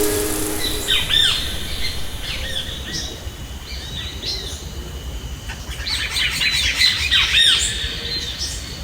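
Many birds chirping, a chorus of short, quick arched notes that comes in bursts and grows busiest about six to seven seconds in, over a low steady background hum.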